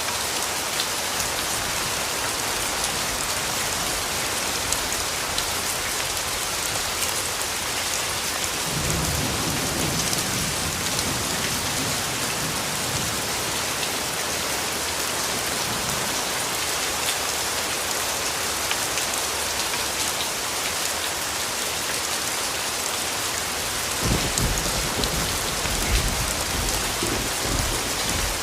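Steady heavy rainfall with scattered ticks of individual drops. Thunder rumbles low twice: about nine seconds in and again near the end.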